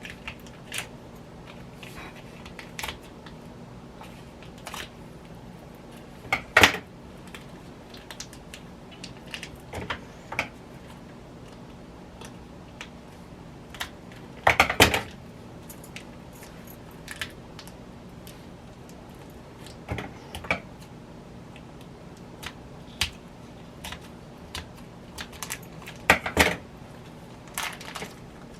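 Kitchen handling sounds as ham and its packaging are opened and handled on a plate: scattered light clicks and knocks, with three louder knocks about 6, 15 and 26 seconds in. A faint steady hum runs underneath.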